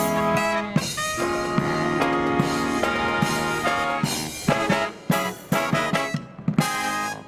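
Marching brass band with drums playing held brass chords, then a run of short, punchy chord hits with drum strokes, stopping sharply on a final chord near the end.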